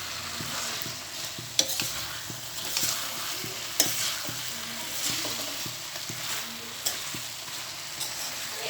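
Chicken pieces sizzling in a hot pan of tomato gravy while being stirred, with a utensil knocking sharply against the pan a few times.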